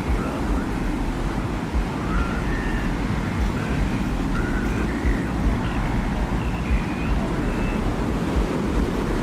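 Desert wind ambience: a steady low rumbling wind with faint, short, wavering whistles that come and go high above it.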